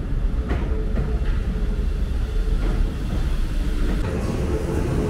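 Paris RER commuter train pulling into an underground platform: a heavy low rumble of wheels on rails with a steady whine, and a few sharp clacks in the first few seconds.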